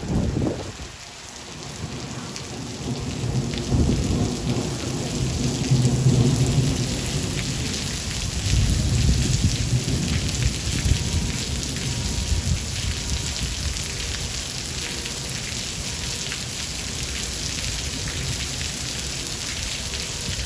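Steady rain falling, with a long rolling rumble of thunder that swells a few seconds in and dies away about two-thirds of the way through, leaving the rain alone.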